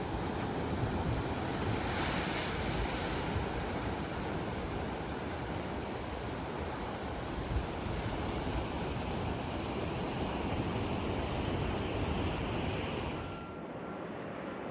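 Ocean surf washing against a rocky shore, a steady rushing swell with wind on the microphone. About a second before the end the hiss cuts off abruptly, leaving a quieter, duller background.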